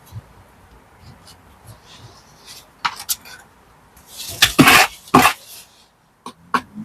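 Metal hand tools clinking and scraping: a couple of sharp clinks, then a louder burst of scraping knocks, then more sharp clinks near the end.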